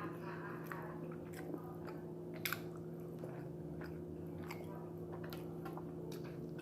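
Close-up chewing of barbecued ribs: scattered wet mouth clicks and smacks, over a steady low hum.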